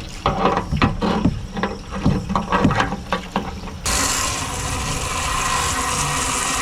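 Scattered knocks and clatter of handling, then, about four seconds in, water suddenly starts rushing steadily into a motorcycle gas tank to rinse rust out of it.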